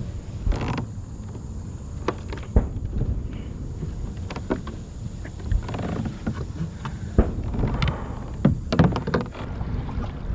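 Irregular knocks and thunks of gear handled on a plastic kayak, several in quick succession near the end, over a steady low rumble of wind on the microphone.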